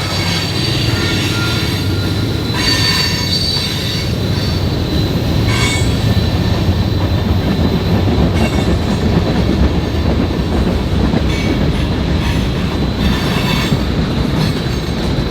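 Train rolling past close by: a steady heavy rumble of wheels on rail, with high-pitched wheel squeals flaring up every few seconds.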